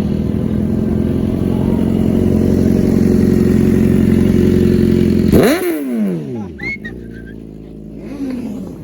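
Car engine held at high, steady revs, then let off about five seconds in with a brief crackle as the revs fall away quickly.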